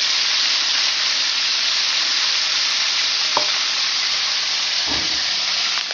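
Chicken frying in hot oil, a steady sizzle, with a light click about three and a half seconds in and a soft knock near the end.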